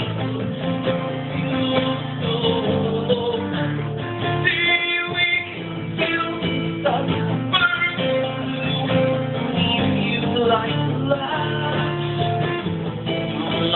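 Live band music led by guitars, with some singing.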